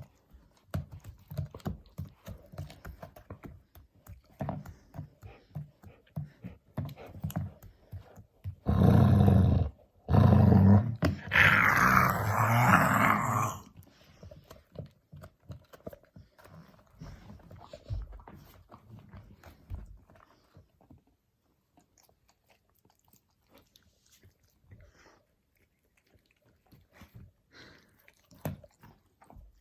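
A dog growling in two loud bouts, about a second and then about three seconds long, near the middle, as she guards her bone from being taken. Before the bouts come many soft clicks and gnawing sounds.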